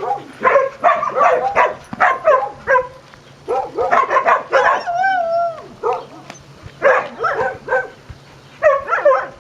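A chatty dog vocalizing: a run of short, pitched woofs and yips in quick succession, with one longer wavering whine about five seconds in.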